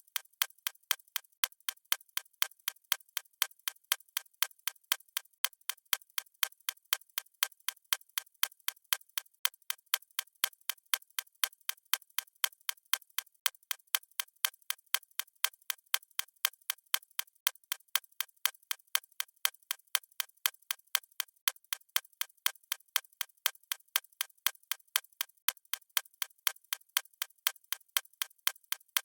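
Clock ticking steadily, about two crisp ticks a second.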